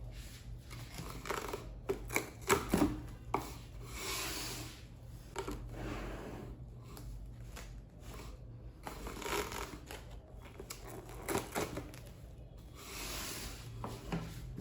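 Handling noises: a cluster of sharp clicks and knocks about two to three seconds in, and several soft rustling swishes, over a steady low hum.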